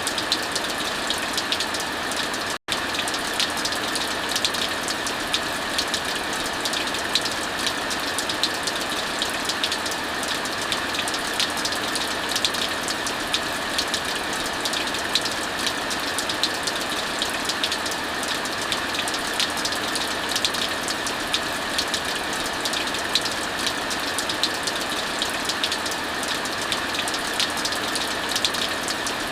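Heavy rain falling steadily, a dense even hiss, with the crackle of a wood fire in a fireplace as many sharp little ticks throughout. The sound drops out for a split second about two and a half seconds in.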